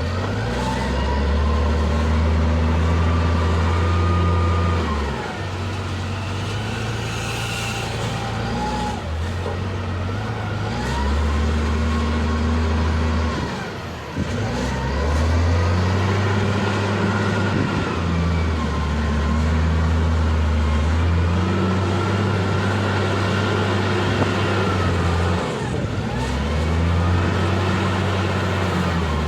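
Diesel engine of an L&T 9020 backhoe loader working through repeated loading cycles. The engine note steps up and down every few seconds, and a whine rises and falls with each lift of the arm.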